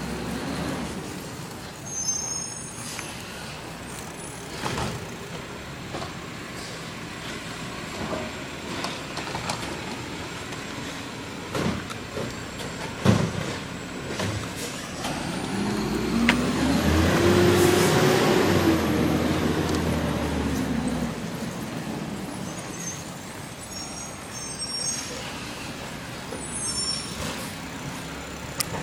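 Garbage truck working curbside: its engine runs steadily, with a sharp knock about halfway and brief high squeaks near the start and near the end. About two-thirds through, the engine and a whine rise in pitch and fall back over a few seconds, the loudest part.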